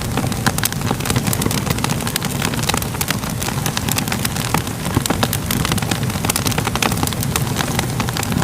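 Wood fire crackling steadily, with frequent small pops and snaps over a low, continuous rumble.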